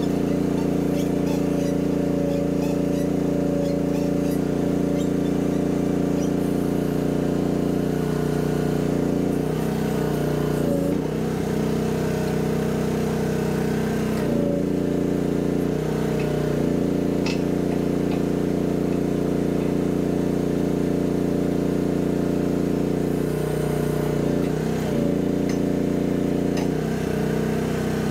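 Chinese mini excavator's engine running steadily while it drives a hydraulic auger into the ground; its note wavers briefly several times as the load changes.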